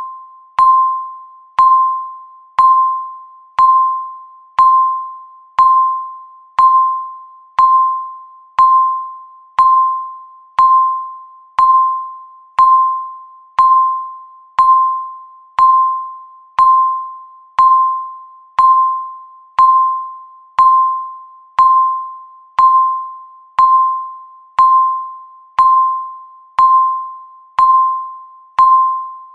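Countdown timer ticking once a second, steady and even: each tick is a sharp click with a bell-like ringing tone that fades before the next one.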